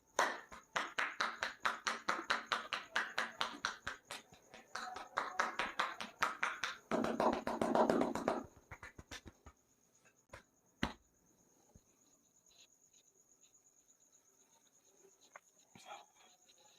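Rapid percussive hand strokes of a head massage, sharp slaps or taps at about five a second, keep going for about eight seconds and then stop. One more single slap comes a few seconds later. A faint steady high chirr runs underneath.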